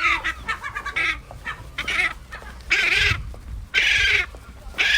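Gulls calling: a quick run of short calls at the start, then longer, harsh calls about once a second.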